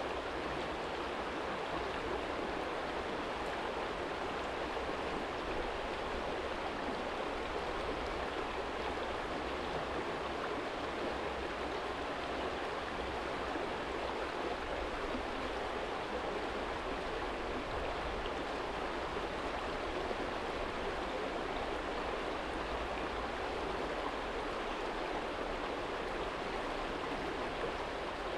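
Small stream flowing steadily over a stony bed, a constant even rush and babble of water, with a faint low rumble beneath it.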